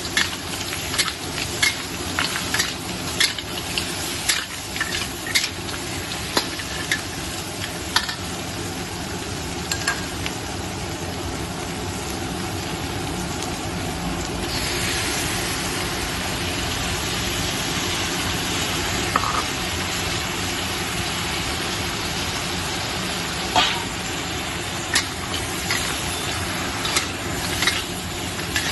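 Mud crab being stir-fried in a pan: a steady sizzle with a utensil clicking and scraping against the pan. About halfway through, the sizzle rises into a louder hiss for several seconds, then the clicking returns.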